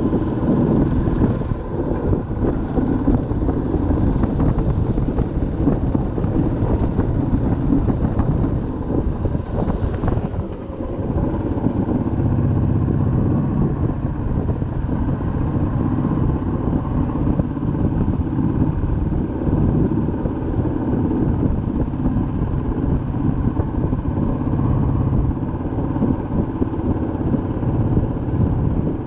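Motorcycle engine running steadily while riding, with a short drop in level about ten seconds in.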